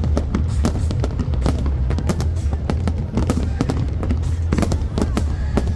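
Fireworks display: a dense run of rapid crackles and pops over a constant low rumble of booms.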